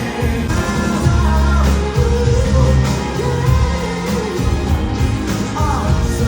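Thai indie band playing live with a singer, loud and bass-heavy.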